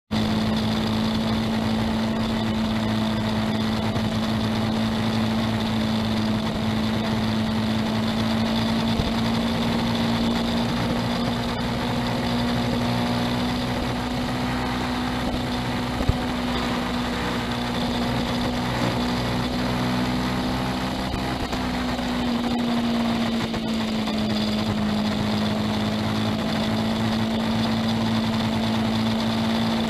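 Honda CBR500R's parallel-twin engine running at steady revs under way through a long bend, heard from a camera mounted on the bike. The engine note holds one pitch, dips slightly about two-thirds of the way through, then steadies again; a single brief click sounds about halfway.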